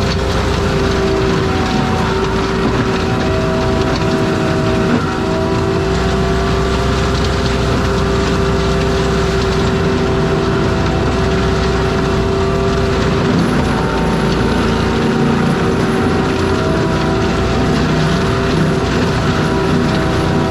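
ASV RT-120F compact track loader's diesel engine and forestry mulcher head running steadily under load while mulching small trees, with a sustained whine. There is one brief knock about five seconds in.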